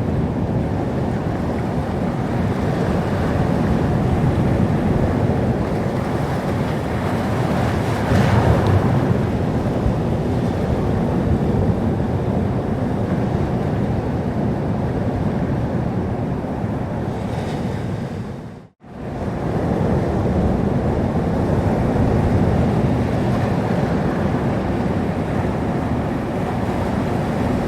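Sea surf: waves washing in steadily, with a swell about eight seconds in and wind on the microphone. About two-thirds of the way through, the sound fades out to silence for a moment and comes straight back.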